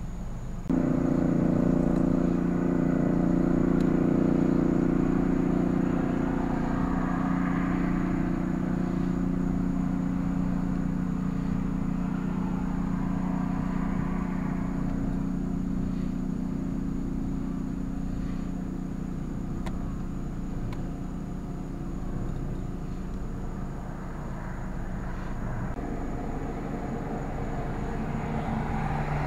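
Car engine running with a steady low hum that starts suddenly about a second in. Two vehicles swell past and fade.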